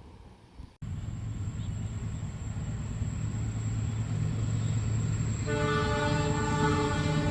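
An approaching train's locomotive rumbles low and steadily, growing louder, and then sounds its horn in one long blast of several tones together, starting about two-thirds of the way in. The rumble begins abruptly about a second in, after a few moments of quiet outdoor ambience.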